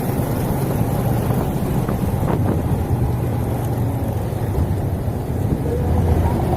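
Motor vehicle engine running steadily, a continuous low drone with road noise.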